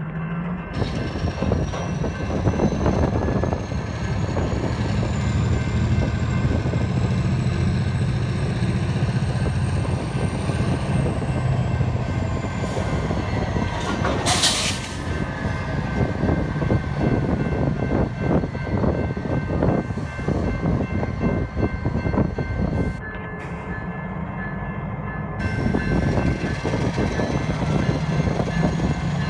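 Diesel switcher locomotives running as they pull a train of flatcars through a grade crossing, their engines giving a steady low drone over the clatter of wheels on the rails. Steady ringing tones from the crossing signal run underneath, and there is a brief loud hiss about halfway through.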